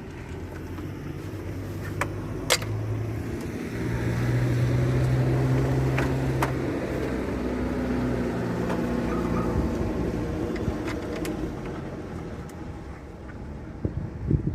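A motor vehicle's engine hum that swells and then fades over several seconds, like a vehicle passing by, with a few sharp clicks and, near the end, a couple of knocks.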